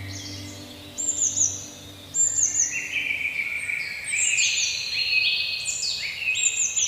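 Songbirds singing, with a repeated short high chirping phrase about every second or two over lower warbling trills. A held musical note fades out at the start.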